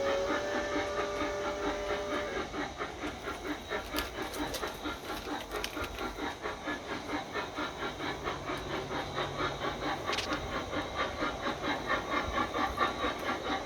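Model steam locomotive's sound unit on a garden railway: a two-note whistle held for about two seconds, then steady rhythmic chuffing as the train runs.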